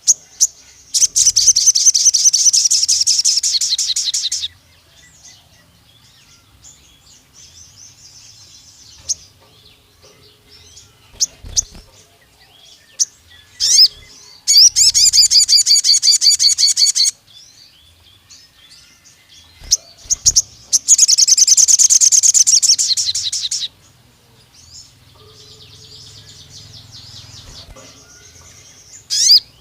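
Sogon (crimson sunbird) singing three long, rapid, high-pitched trills, each two to four seconds of fast repeated notes, with softer chirps and short calls between them. This is the long 'nembak' song of a bird in full voice.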